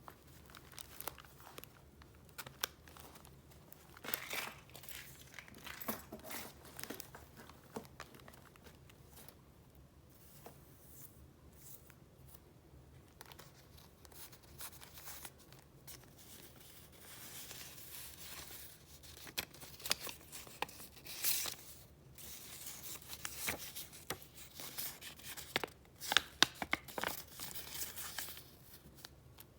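Paper rustling and crinkling as sheets and papers are handled and flipped through, in short irregular bursts that grow busier and louder in the second half, with a few sharper crackles near the end.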